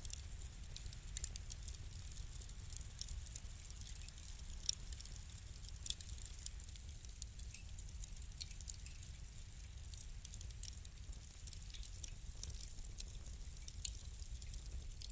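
Wood fire crackling: irregular sharp pops and snaps over a low, steady rumble of the flames, with a couple of louder pops near the middle.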